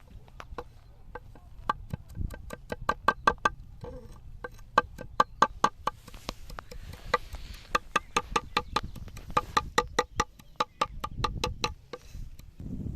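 A quick series of sharp knocks, about four to five a second in runs, with short pauses between the runs.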